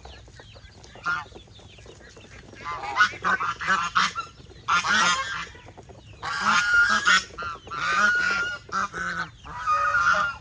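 Domestic geese honking, a run of loud repeated calls coming in several clusters from about three seconds in.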